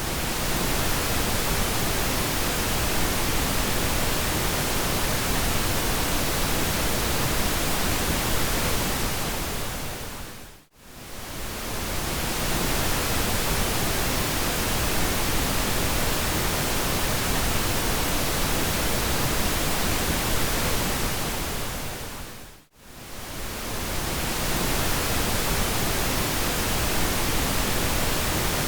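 Continuous pink noise, an even hiss spread across all pitches. It fades briefly down to near silence and back up twice, about twelve seconds apart, at the seams of a repeating loop.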